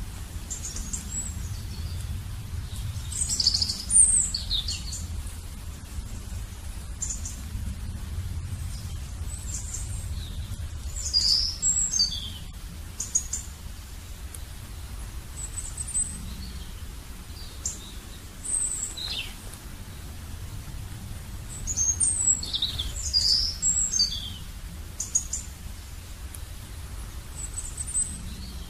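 Small birds chirping in clusters of short, quickly falling high notes, over a steady low rumble.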